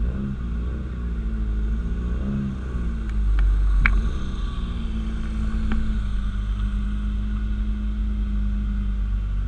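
Car engine running at low speed while driving slowly, its pitch rising and falling over the first couple of seconds and then holding steady. A short high squeak comes about four seconds in.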